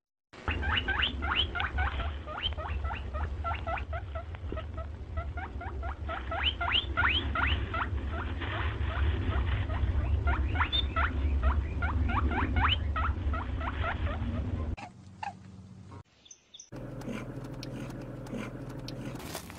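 Hare squeaking: a long run of quick, short, high squeaks, each rising in pitch, over a low rumble. It breaks off about 15 seconds in, and a quieter, lower sound starts near the end.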